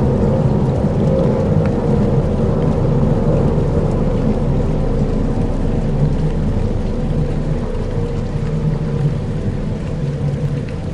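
Dark ambient soundscape: a steady low rain-and-thunder rumble with a faint droning hum underneath, easing off slightly near the end.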